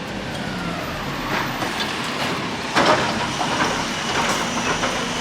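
Garbage truck running, with a steady mechanical rumble and several sharp clanks at irregular intervals, the loudest a little under three seconds in.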